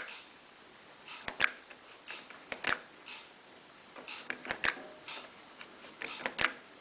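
Control panel of a Miele Professional PW 6055 Plus washing machine clicking as programs are selected: about five sharp paired clicks, one every second or two.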